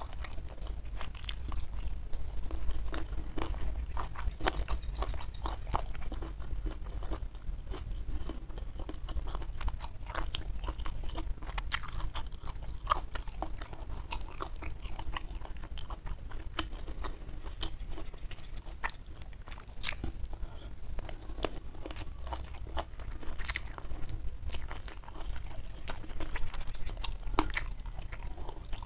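Close-miked chewing and biting of petai (stink beans) and fried jengkol dipped in chili sauce, with many sharp, irregular crunches.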